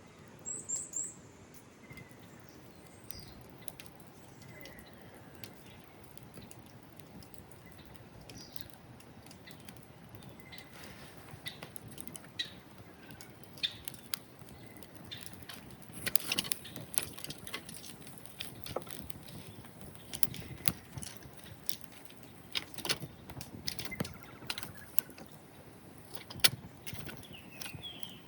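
Small birds chirping now and then over a quiet outdoor background. Scattered clicks and light clinks, like gear being handled, come more often in the second half, with one sharp click near the end.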